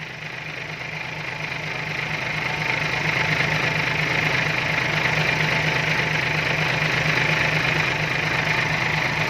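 Fuel being poured from a container into a machine's tank, a steady rushing hiss that swells over the first few seconds and then holds, over a diesel engine idling.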